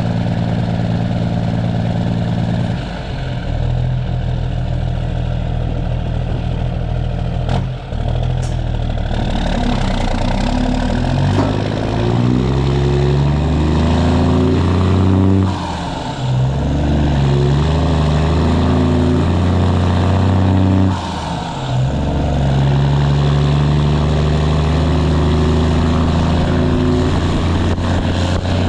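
Straight-piped Cummins ISX inline-six diesel in a Kenworth W900 pulling through the gears, its pitch climbing under load and dropping sharply at each shift, several times.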